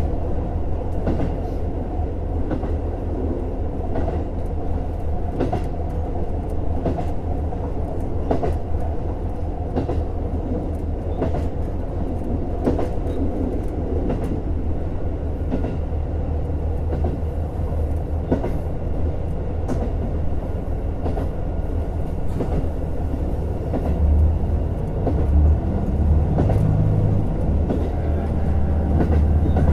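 Running noise inside a JR Hokkaido KiHa 150 diesel railcar: the steady drone of its diesel drive, with wheels clicking over rail joints many times. About 24 seconds in, the low engine hum changes and grows louder.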